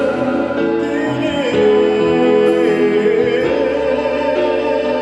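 A French Christian hymn with instrumental accompaniment, sung with long held notes that change pitch a few times.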